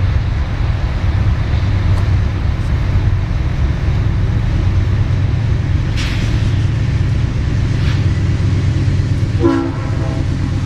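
Diesel locomotive running with a steady low rumble as a train passes close by; the locomotive's air horn sounds one short blast near the end.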